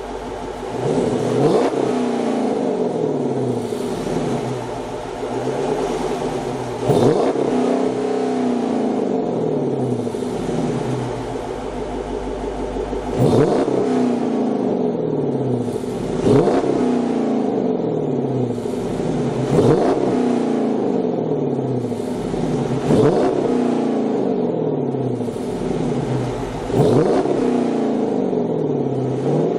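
A 2009 Dodge Challenger R/T's 5.7-litre HEMI V8 on a Corsa Xtreme cat-back exhaust with JBA shorty headers, free-revved from idle about seven times. Each rev rises sharply and then falls back to idle.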